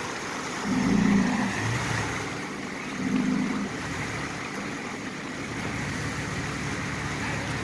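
A vehicle engine running and revving up briefly twice, about a second and about three seconds in, over the steady rush of river water.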